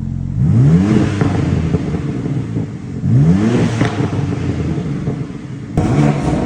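BMW G87 M2's twin-turbo S58 inline-six, breathing through an MPE exhaust with an Active Autowerke equal-length midpipe, idling and then revved three times, the pitch climbing and falling back each time.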